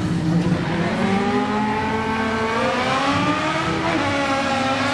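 Car engine accelerating hard, its pitch climbing steadily through the gears with brief drops at the shifts about two and a half and four seconds in: a car on a drag-racing run.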